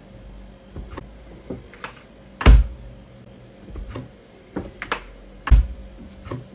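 A series of irregular knocks and thumps in a small room, about ten in all, the loudest about two and a half seconds in.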